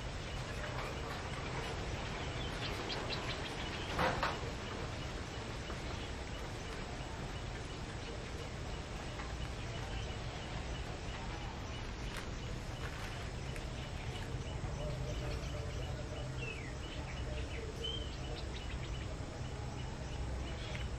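Outdoor ambience: a steady low background noise with scattered short, faint bird chirps, and one brief louder noise about four seconds in.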